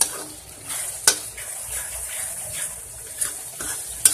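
Onion, ginger-garlic and spice masala sizzling as it fries in a kadai on low-medium heat, being stirred. The stirring utensil scrapes the pan and knocks sharply against it a few times.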